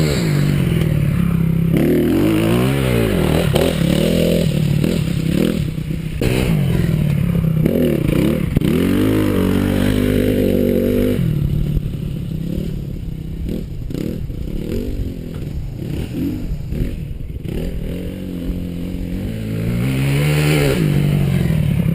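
Honda CRF250R motocross bike's four-stroke single-cylinder engine revving up and down again and again during brake and throttle turns, its pitch rising and falling every second or two. It runs a little quieter for a stretch in the middle.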